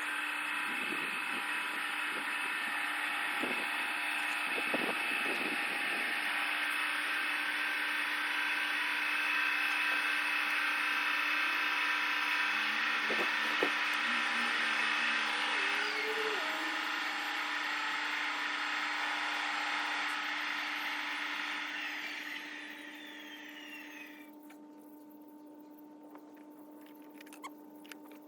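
G scale model train running, a steady mechanical whine with hiss, which fades away about 22 seconds in as the train moves off; a few faint ticks near the end.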